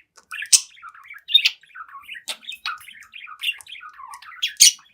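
Budgerigar chattering: a quick, unbroken run of short chirps, warbles and clicks, with sharp squawks about half a second in, a little past two seconds, and near the end.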